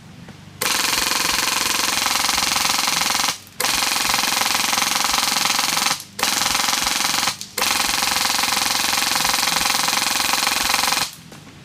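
Airsoft M1919 machine gun replica with a PolarStar Fusion Engine, running on compressed air, firing full-auto at a high rate of fire in four long bursts with short pauses between them. The BBs are feeding properly from the box mag.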